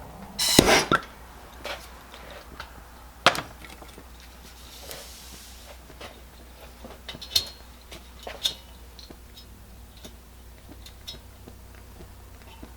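Metal clinks and knocks from handling a Coleman 502 single-burner camp stove while preparing to preheat it, with a short noisy burst about half a second in and scattered sharp taps after it.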